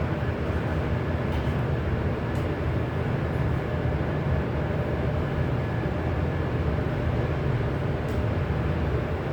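Steady low mechanical rumble at an even level, with a faint hum and an occasional faint tick.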